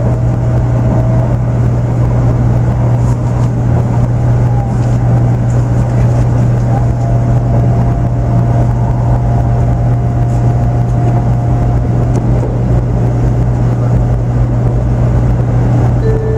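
Running noise inside the cabin of a 500 series Shinkansen train: a steady low rumble, with a faint thin whine from the drive that climbs slowly as the train gathers speed.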